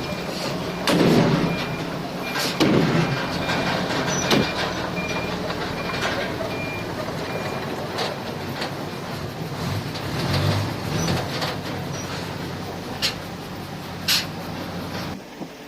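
Heavy diesel earthmoving machinery running steadily, with a reversing alarm beeping at a steady rate for the first several seconds and several sharp clanks over the engine. The sound drops away abruptly near the end.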